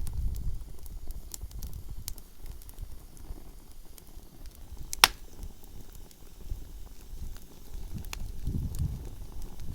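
Wood campfire crackling, with scattered sharp pops and one loud snap about halfway through, over a low rumble.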